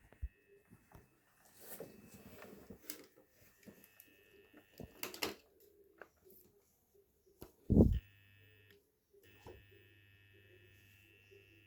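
Canal+ Syster decoder giving off a steady high-pitched whine over a low hum, the strange running noise that the owner likens to something turning inside, like a hard disk. A loud thump comes about eight seconds in, with light knocks scattered through.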